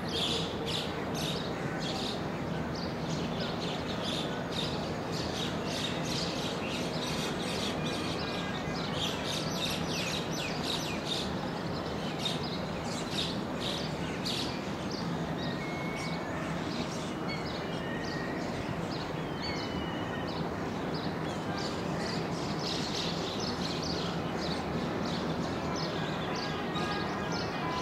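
Many small birds chirping in quick, overlapping bursts, thickest in the middle and again near the end, over a steady low hum of city background noise.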